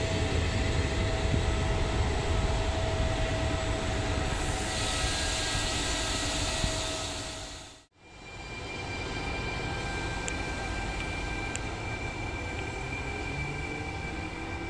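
Passenger coaches of a regional train rolling past on the rails with a loud rumble that fades out about halfway. Then a Trenitalia E.464 electric locomotive with its regional train rolls in, quieter, with a steady high whine and a few faint clicks.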